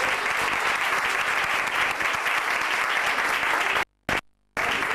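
Audience applauding steadily. The applause breaks off abruptly a little before the end, with a few short gaps of silence.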